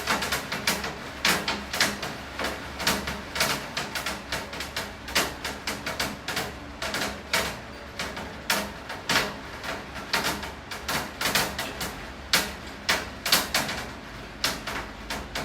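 Rain falling onto a hard surface as a dense run of irregular sharp taps, several a second.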